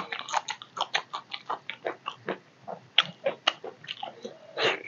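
A person chewing a mouthful of fish curry and rice eaten by hand, with many short irregular mouth clicks, several a second.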